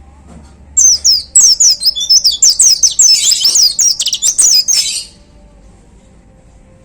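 A pleci (white-eye) singing a fast, loud burst of sharp, high notes that sweep downward, starting about a second in and breaking off after about four seconds.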